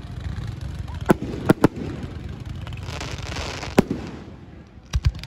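Fireworks display: a string of sharp bangs from bursting shells, one about a second in, two close together soon after, one near four seconds and a quick cluster of three near the end, over a steady low rumble. A crackling hiss swells around three seconds in.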